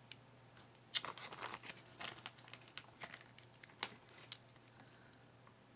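Faint handling noises as hands work a faux-pearl bracelet with a magnetic clasp: scattered small clicks and rustles, mostly between about one and four and a half seconds in. The clasp's magnet has come loose, so the clasp does not close.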